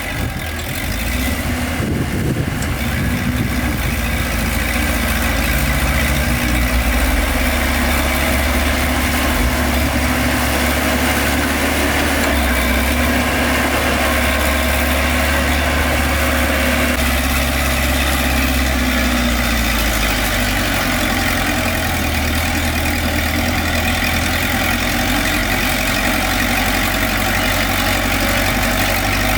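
Heavy diesel engine of earthmoving machinery running steadily at low revs, its low tone shifting slightly a little past the middle.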